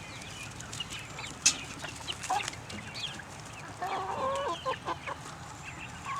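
A flock of young chickens clucking and chirping in many short calls, with a louder, fuller call around four seconds in. A single sharp tap about a second and a half in is the loudest sound.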